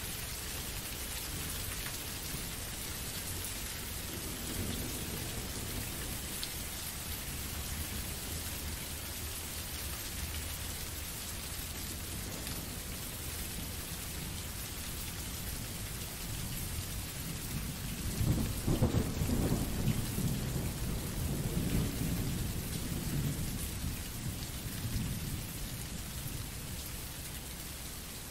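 Steady rain from a background sound-effect track. About two-thirds of the way in, a rumble of thunder swells and fades over several seconds.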